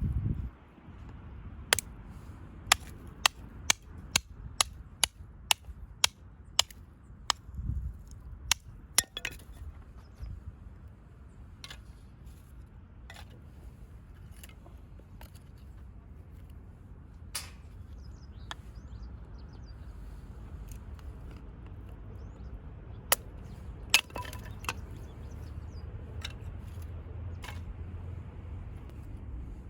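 Firewood being split by hand: a run of sharp wooden knocks about two a second, then occasional single strikes, over a steady low rumble.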